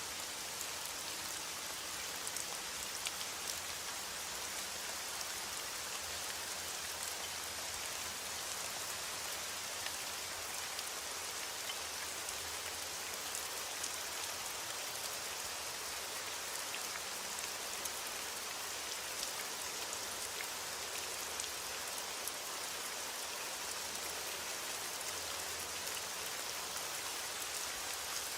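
Steady rain falling, a constant hiss with scattered drops ticking on a surface.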